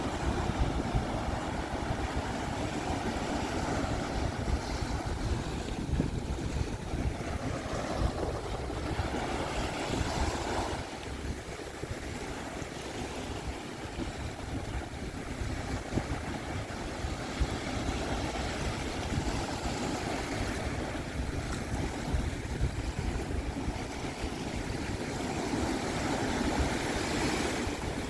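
Pacific Ocean surf breaking and washing up the beach, swelling louder in the first ten seconds and again near the end, with wind rumbling on the microphone.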